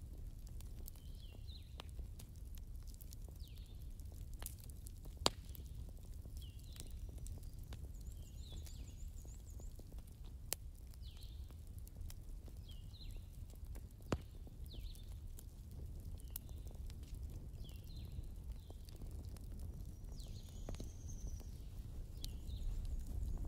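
A bird chirping faintly over and over, short high chirps about once a second, with a few sharp clicks over a steady low background rumble.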